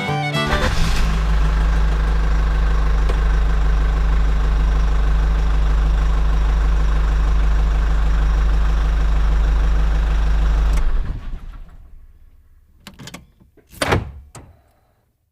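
A small engine running steadily with a low hum, cutting off about eleven seconds in, followed by a few clicks and one louder knock.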